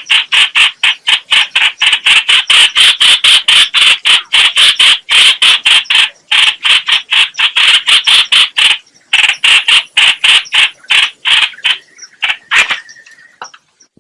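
Trao trảo (chao chảo) bird calling in a fast run of harsh, chattering notes, about four a second, with brief pauses about nine seconds in and near the end. It is a recorded call of the kind played as a lure to trap this bird.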